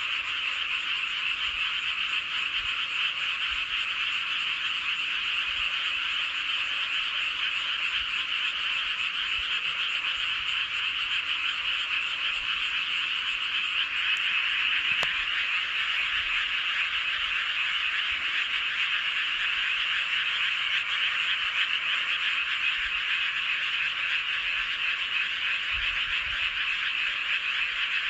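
A dense chorus of many paddy frogs calling together, an unbroken wall of overlapping croaks pitched fairly high. It swells slightly about halfway through.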